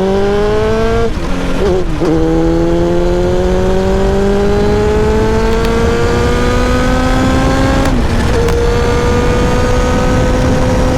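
Kawasaki ZX-7R's inline-four engine pulling steadily up through the revs under acceleration, with gear changes about a second in and about eight seconds in, then holding an even pitch at steady speed. Heavy wind rush runs underneath.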